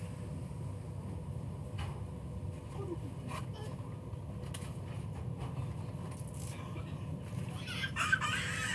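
Steady low rumble of a passenger train coach rolling along, with a few faint knocks. Near the end a young child's voice cries out briefly.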